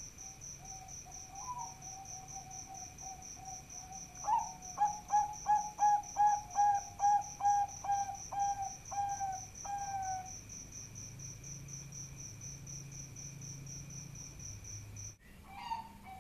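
Zebra dove (Bangkok-type perkutut) cooing: soft low coos, then a loud run of about a dozen rolling coo notes at about two a second, with a high insect-like chirp repeating steadily behind. The sound cuts off abruptly near the end.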